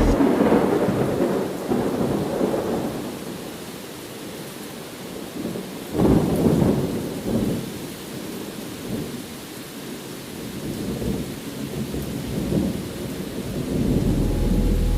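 Steady rain with thunder: a rumble dying away at the start, a sudden clap about six seconds in that rolls off over a couple of seconds, and further low rumbles swelling near the end.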